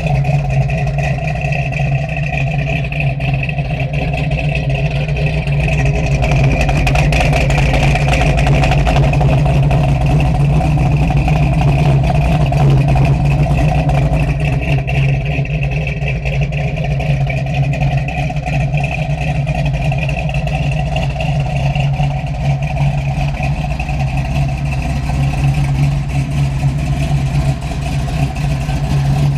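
1970 Dodge Challenger's 505 cubic-inch big-block wedge V8, with a carburettor, running steadily through its exhaust. It gets louder for several seconds about a quarter of the way in, then eases back.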